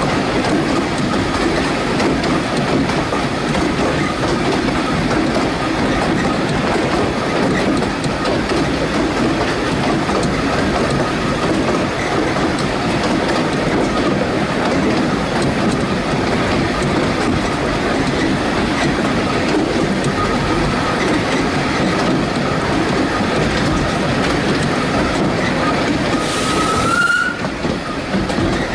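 Narrow-gauge railway carriage running along the track, heard from an open window: a steady rumble of wheels on rail with a faint squeal, which rises briefly near the end.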